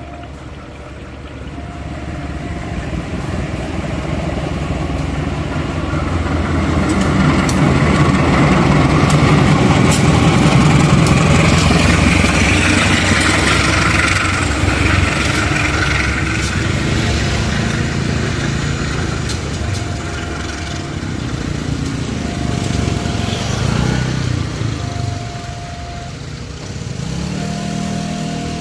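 Diesel-electric locomotive running light past: its engine grows louder to a peak about ten seconds in, then fades, with sharp clicks from the wheels while it is closest. A short repeating tone sounds about every two and a half seconds, heard before and after the loud part.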